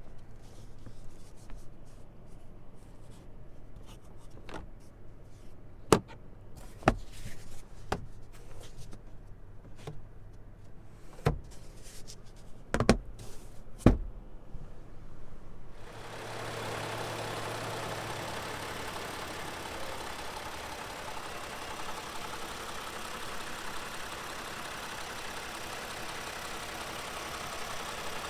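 Sharp clicks from the 2020 Toyota Sienna minivan, about six of them over a low steady hum. About halfway through, a steady even rushing noise starts and carries on.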